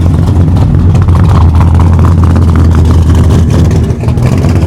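Engine running steadily at idle, a loud, even low drone.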